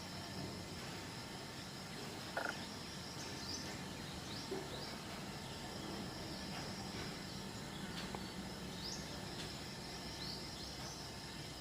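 Outdoor ambience: a steady, high insect drone with scattered short, high chirps from small birds, each a quick upward sweep, coming every second or two.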